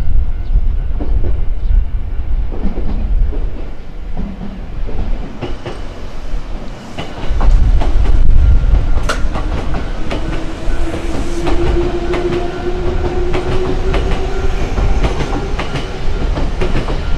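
Electric commuter train passing close by, wheels clattering over rail joints with a deep rumble, loudest about eight seconds in. From about ten seconds in a whine rises slowly in pitch.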